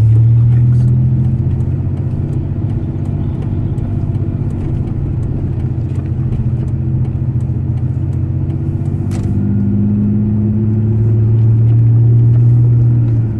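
Pickup truck's engine and tyre noise heard from inside the cab while driving, a steady low drone that swells at the start and again near the end. A single sharp click comes about nine seconds in.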